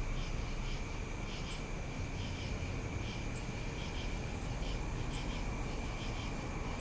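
Steady low engine rumble of vehicles idling, with a thin steady high tone and faint high chirps repeating a few times a second above it.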